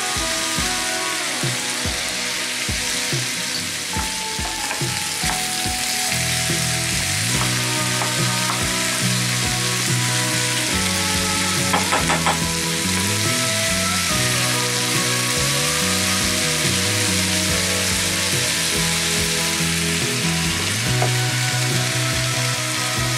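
Mixed vegetables and mushrooms sizzling steadily as they fry in a pan, stirred and scraped with a wooden spoon, with a short cluster of knocks about halfway through.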